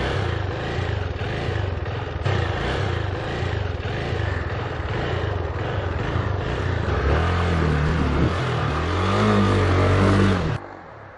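Dirt bike engine running and being revved, its pitch rising and falling several times in the second half before the sound cuts off abruptly near the end.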